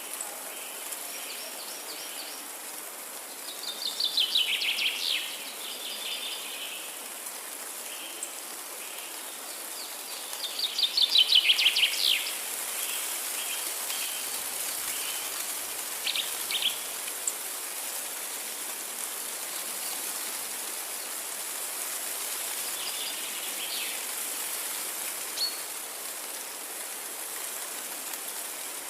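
Forest birdsong: two loud songs of rapid notes falling in pitch, about four and eleven seconds in, followed by a few shorter, quieter calls. Throughout there is a steady background hiss.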